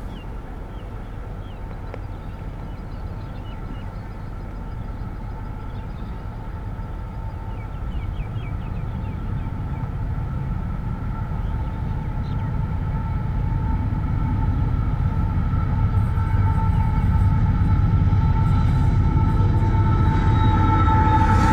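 Loaded coal train approaching behind Aurizon diesel locomotives: a low engine rumble grows steadily louder, with a steady whine rising along with it.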